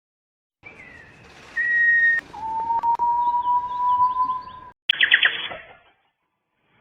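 A songbird giving long, steady whistled notes: a short higher note, then a long lower one that rises slightly. It cuts off abruptly, followed by a click and a brief, fast trill.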